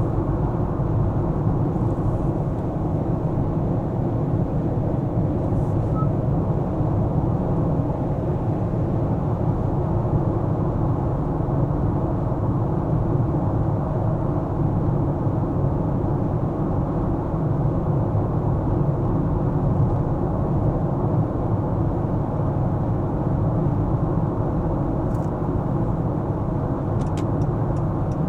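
Steady tyre and engine noise of a car on the move, even and unbroken, with a few faint ticks near the end.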